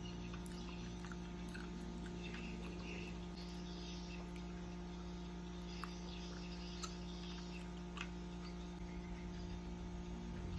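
Soft, wet chewing and mouth sounds of someone eating chewy tteokbokki rice cakes, with a few faint clicks, over a steady electrical hum.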